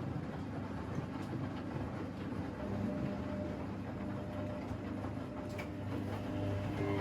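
Washing machine running a wash cycle: a steady rumble of the turning drum with light clicking, joined by a steady motor hum about two and a half seconds in.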